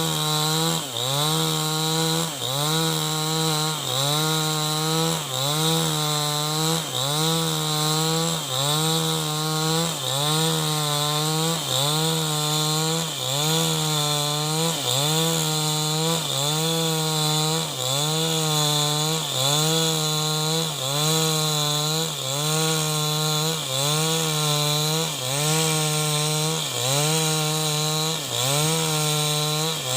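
New West 788 chainsaw running at full throttle while ripping avocado wood lengthwise into rafter beams. The engine pitch dips under load and recovers in a steady rhythm, about once every second and a half.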